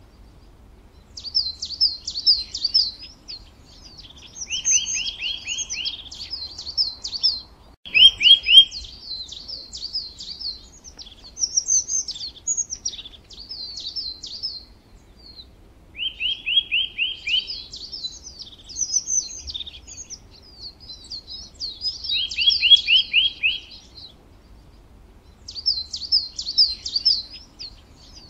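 Songbird singing, repeating phrases of quick chirps and trills, each a couple of seconds long with short pauses between.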